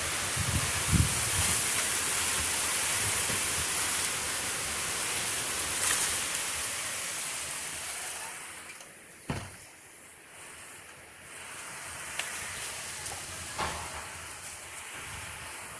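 Heavy rain hissing steadily, easing for a few seconds past the middle and then picking up again, with a short low rumble near the start and a single sharp knock about nine seconds in.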